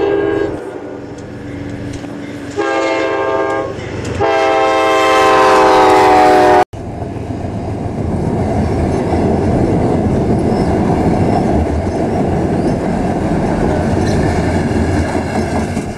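Train horn sounding in blasts, the last one falling in pitch as the train passes close by. After a sudden cut, the train runs across the railway bridge overhead with a loud, steady noise of wheels on the rails.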